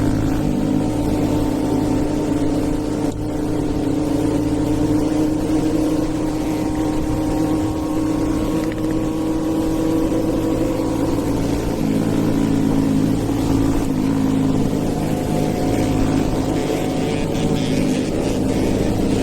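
Hero Eco 150's stage-2-tuned single-cylinder engine running steadily as the motorcycle is ridden, at a fairly even pitch with a slight drop about twelve seconds in.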